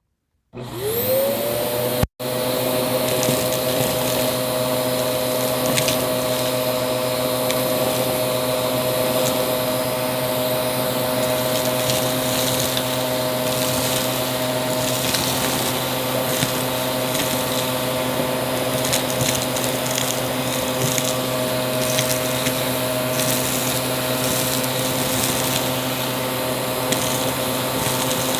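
Aspiron vacuum cleaner starting about half a second in, its motor whine rising and settling to a steady pitch. It runs steadily while sucking up crunchy debris that crackles and ticks through the hum.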